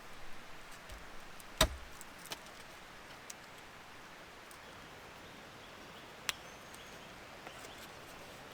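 A single sharp chop into wood about a second and a half in, followed by a few fainter taps and clicks over a faint steady hiss.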